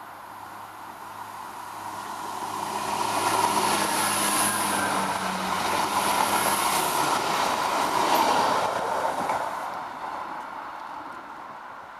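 Irish Rail 22000 class diesel multiple unit passing by. A low steady diesel hum grows as it approaches, swells into a loud rush of wheels on rail and engines as the cars go past, then fades as it draws away.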